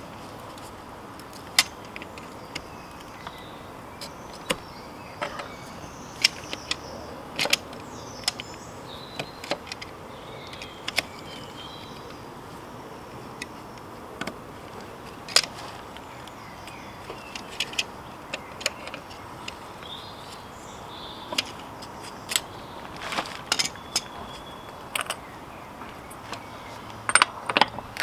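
Irregular metallic clicks and clinks of hand tools and metal parts being handled, some in quick clusters near the end, over a steady background hiss.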